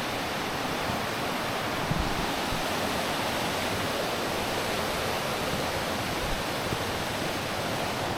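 Steady rush of flowing water from a forest stream close by.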